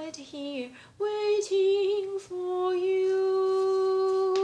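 A woman singing the closing words of a ballad solo, ending on one long held note.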